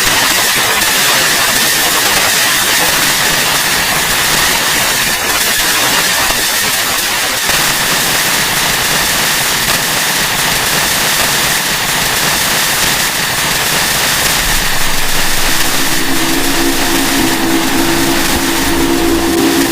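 Harsh noise music: a loud, unbroken wall of static-like noise with a steady high whine running through it. About three-quarters of the way in, a steady low drone joins.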